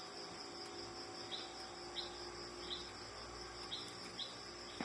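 Crickets trilling steadily as a high background hum, with short high chirps repeating about once a second.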